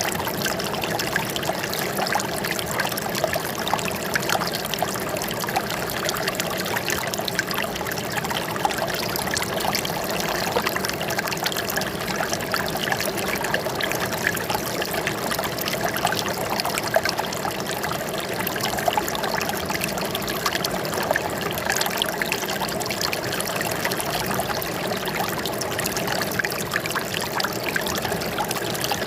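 Running water trickling and splashing steadily, a dense patter of small splashes over an even rush.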